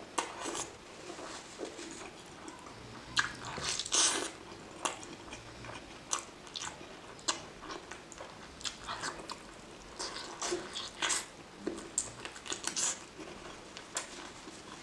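Close-miked chewing of mouthfuls of chicken curry and rice, with many short wet clicks and smacks at irregular intervals.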